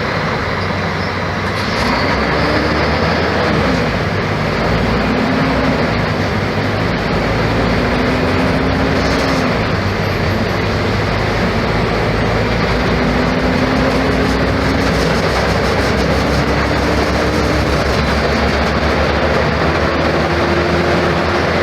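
Mercedes-Benz O-500MA articulated bus with a Bluetec 5 diesel engine and Voith automatic gearbox running under way. A steady rumble is joined by a whine that rises in pitch several times, each rise followed by a step, as the bus pulls away through the gears.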